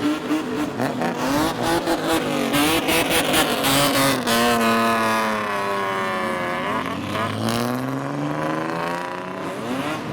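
Modified car engine revving through a loud exhaust: quick blips up and down with crackling pops for the first few seconds, then the revs fall away and climb steadily again over the last few seconds.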